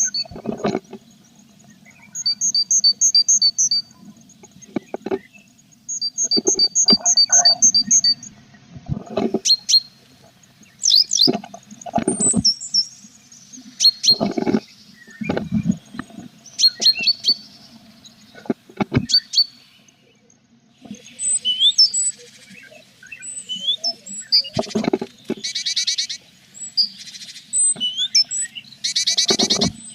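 Tits inside a wooden nest box: runs of rapid, high-pitched chirps, with bumps and scratches as the birds move about against the box. Near the end the chirping grows busier, with buzzy trills.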